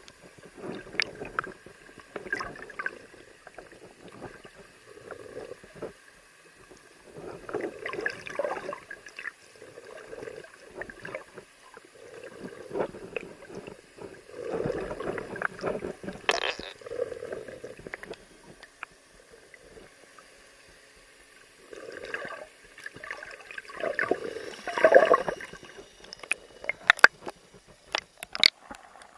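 Water sloshing and gurgling in irregular surges, with scattered sharp clicks and a quieter lull past the middle.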